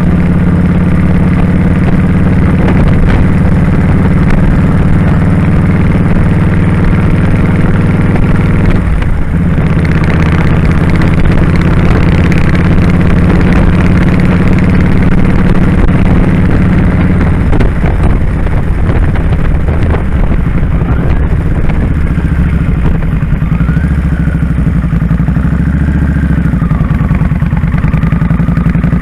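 Kawasaki Drifter 1500 V-twin motorcycle engine running on the move. The engine note dips briefly about nine seconds in and changes pitch several times in the second half.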